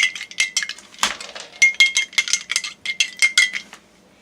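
A spoon stirring iced coffee in a cup, clinking quickly and rhythmically against the cup and the ice cubes, about five or six ringing clinks a second, stopping a little before the end.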